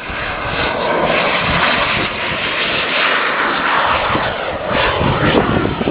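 The twin model jet turbines of a quarter-scale RC A-10 Warthog running steadily in flight, a continuous jet rush.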